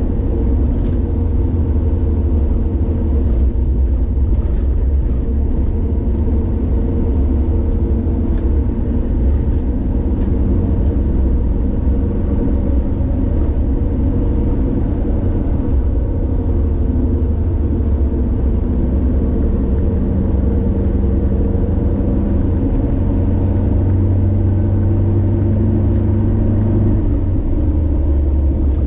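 Car travelling on a highway: a steady low engine and road rumble, its engine tone shifting in pitch a few times, most plainly near the end.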